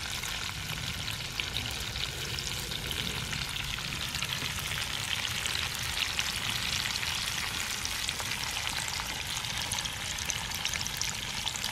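Pieces of gar fish with jalapeños and onion frying in very hot oil in a skillet: a steady sizzle with fine crackling.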